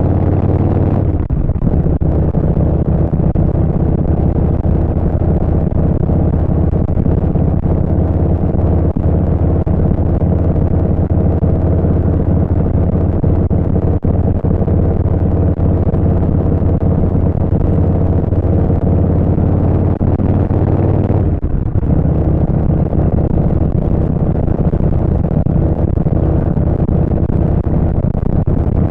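Harley-Davidson Street Bob 114's Milwaukee-Eight 114 V-twin running at cruising speed through a Vance & Hines Short Shots full exhaust, a steady deep engine note. The note briefly dips and changes about a second in and again about three quarters of the way through.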